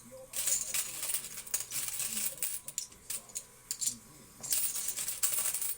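A pile of quarters being sorted by hand: coins clinking and sliding against each other in quick, irregular clatters.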